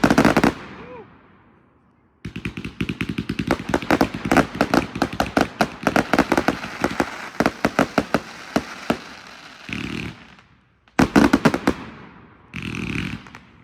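Consumer firework cake firing: one loud bang at the start, then a dense, rapid string of sharp bangs for about eight seconds. A second loud burst of bangs follows near the end.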